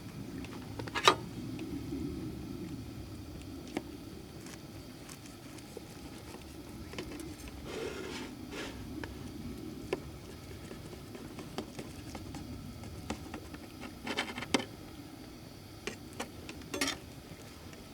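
Scattered light clicks and knocks, a few close together near the end, over a low steady background rumble.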